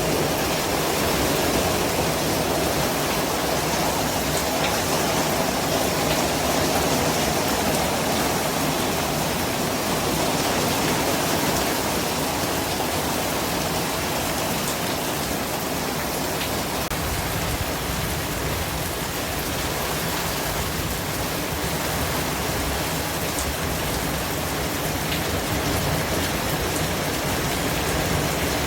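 Steady, even white-noise hiss spread from low to high pitches, with a few faint ticks.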